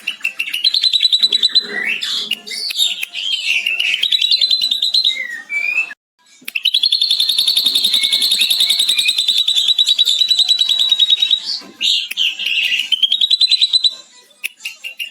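Ashy drongo singing in rapid, high, chattering phrases that copy a lovebird's long 'ngekek' chatter. About six seconds in it breaks off briefly, then runs into one long, unbroken rapid trill of about five seconds before going back to shorter chattering phrases.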